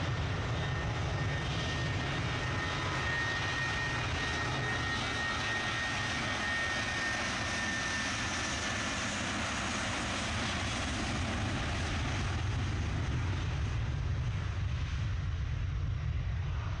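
Jet airliner's engines at takeoff power on the takeoff roll: a steady, dense engine noise with a high whine that fades out about halfway through.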